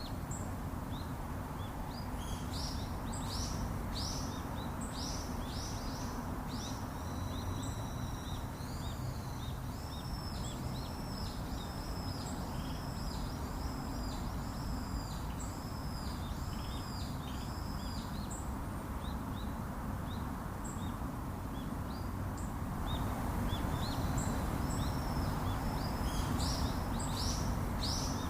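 Songbirds chirping and singing, including a run of repeated arching notes through the middle, over a steady low background hum of outdoor noise.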